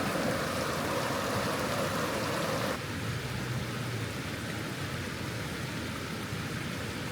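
Steady rush of creek water flowing at a river crossing. About three seconds in it cuts abruptly to a quieter, duller rush with a low steady hum beneath.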